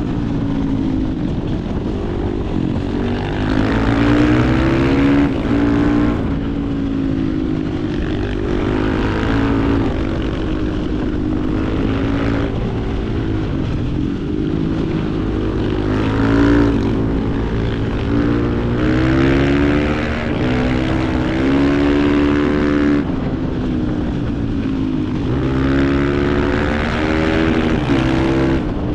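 Supermoto motorcycle engine ridden hard, revving up and dropping back again and again as the rider shifts and lifts off the throttle.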